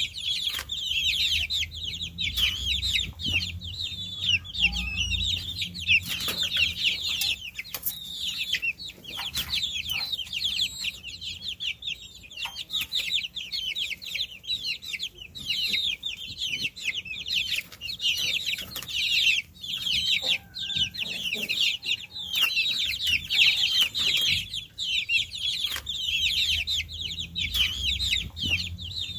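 A group of baby chicks peeping nonstop, many short high-pitched peeps overlapping one another, with a few brief clicks among them.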